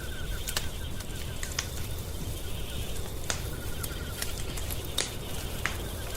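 Wood fire crackling in a fireplace: irregular sharp pops and snaps over a steady low rumble. A faint, rapid, high trill comes and goes behind it.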